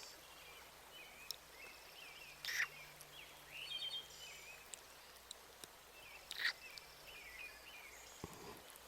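Birds chirping in an outdoor nature ambience, with a few short, wet kiss sounds close to the microphone, the loudest about two and a half and six and a half seconds in.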